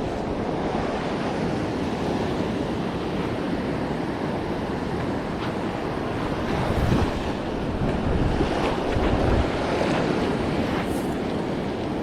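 Ocean surf washing on a beach, a steady rush, with wind buffeting the microphone in gusts about halfway through and again a little later.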